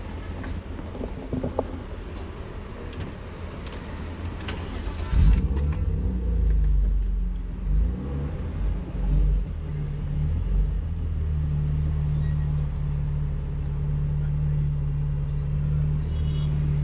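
Car engine inside the cabin: a few light clicks, then about five seconds in the engine starts with a sudden loud burst, its pitch rises and falls for several seconds, and from about eleven seconds in it runs at a steady low hum.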